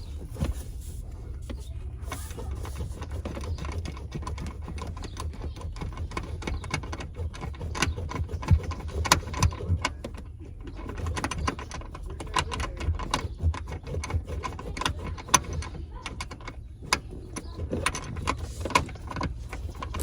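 Irregular metallic clicks, clinks and knocks of tools and seatbelt hardware being handled during installation, over a low rumble.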